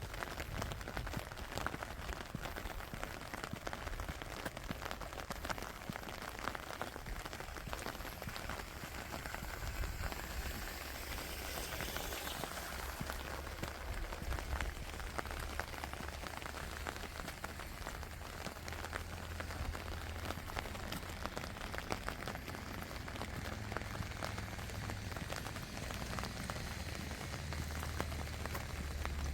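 Steady rain falling, with many small drop ticks on surfaces over an even hiss. A low rumble runs underneath and grows near the end, and a brief swell of hiss comes about twelve seconds in.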